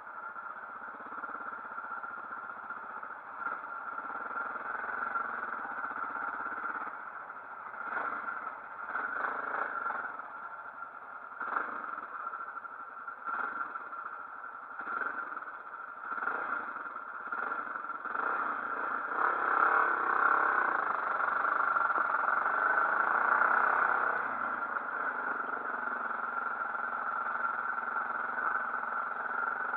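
Motorcycle engine running steadily, with a series of short knocks through the middle and a louder stretch of several seconds about two-thirds of the way through.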